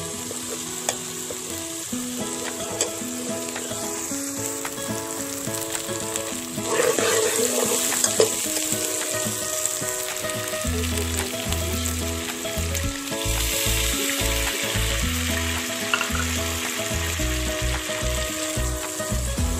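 Masala paste sizzling and spitting in hot oil in a pan, stirred with a steel spoon. Background music plays over it, with a bass line coming in about halfway.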